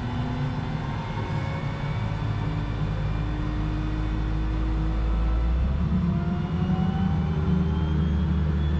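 Cessna Caravan 208B's PT6A turboprop engine spooling up after light-off during start: a steady rumble under a whine that rises slowly in pitch, growing a little louder about five and a half seconds in as the engine accelerates toward idle speed.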